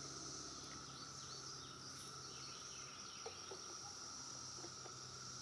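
Faint, steady high insect trilling in a summer field, with a few short bird chirps about one to three seconds in.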